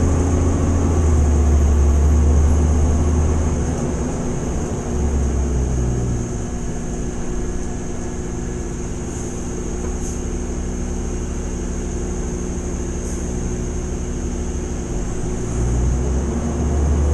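Fire engine's diesel engine and road noise heard from inside the cab while driving: a steady low drone that eases off somewhat through the middle and builds again near the end.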